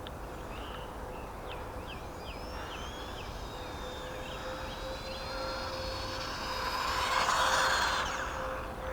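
Small brushed 370 electric motor of a 1/18 RC short-course truck whining as it drives, its pitch rising and then holding high, with a rushing swell that is loudest about seven and a half seconds in as the truck comes closer.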